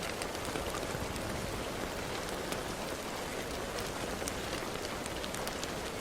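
Steady rain falling, with a dense hiss and many small drop ticks.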